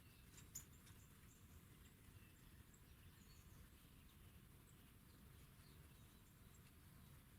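Near silence over a low rumble, with faint, short, high chirps of small birds and a single sharp click about half a second in.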